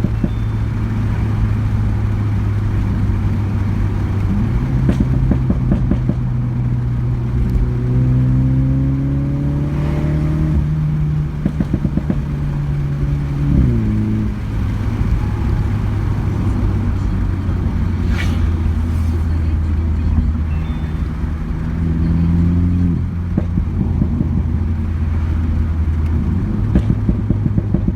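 2018 Mini John Cooper Works (F56) turbocharged four-cylinder running through a custom exhaust while driving. The engine note climbs steadily for several seconds, then drops sharply as the throttle is lifted, with a burst of exhaust pops and crackles. A second burst of pops comes near the end.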